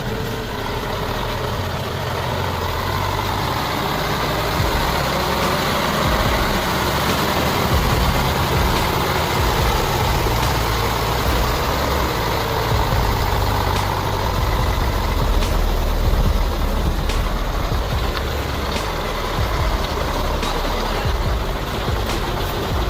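Heavy truck engine running steadily with road noise, and scattered sharp knocks or rattles in the second half.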